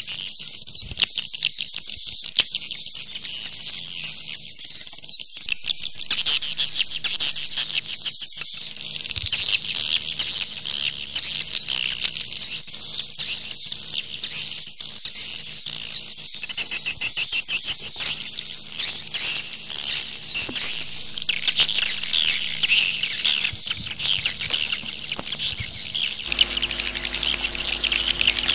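Edible-nest swiftlets chirping and twittering, many high calls overlapping in a dense, continuous stream. This is the 'jaguar' swiftlet call track used to lure the birds. Near the end a low steady hum comes in under the calls.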